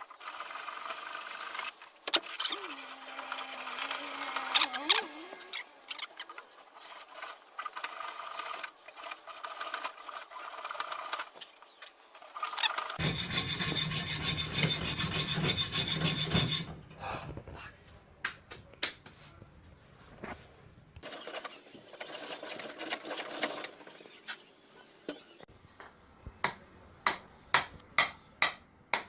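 Hand tools rasping and scraping on a metal engine mount in long stretches, with a louder, fuller spell of it about halfway through. A run of sharp clicks follows near the end.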